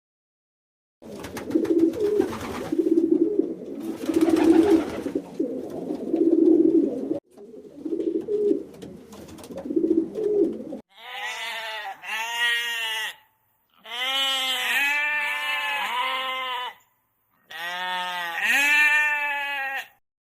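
Low calls repeated about once a second for the first half. Then several long, wavering bleats, rising and falling in pitch, follow from about halfway through to the end.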